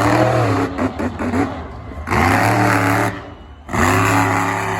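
Monster truck engine revved hard in three bursts, the pitch climbing at the start of each before dropping back.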